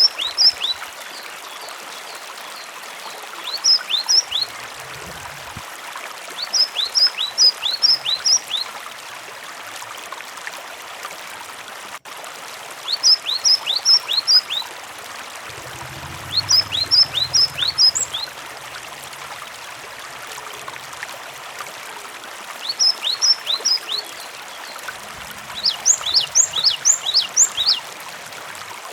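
Cinereous tit (gelatik batu) calling in repeated short bursts of three to six quick, high, falling notes every few seconds, over the steady sound of running water.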